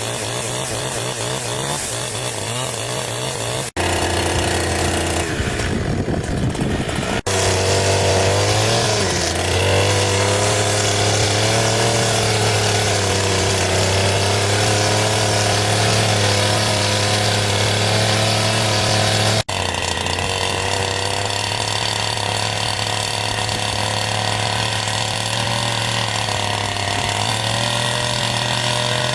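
Two-stroke chainsaw engine running steadily at speed while cutting timber, its pitch wavering a little under load. The sound changes abruptly a few times, about four, seven and nineteen seconds in.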